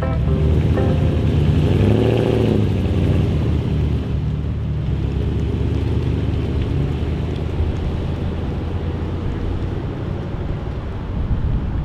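A motor vehicle driving, with a steady low engine and road rumble; the engine pitch rises and falls once about two seconds in.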